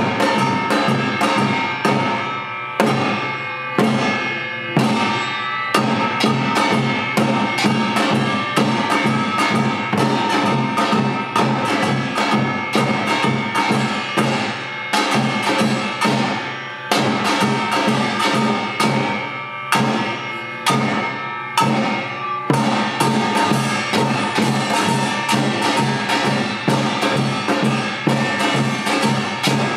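Yeongnam samulnori played by a Korean percussion quartet: kkwaenggwari and jing gongs with janggu and buk drums. Fast, dense strokes run on without a break, with the metal gongs ringing over the drums.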